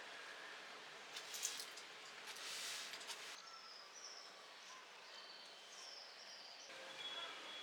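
Faint bird chirps: several short, high calls in the second half, over a low background hiss. Brief bursts of rustling noise come in the first few seconds.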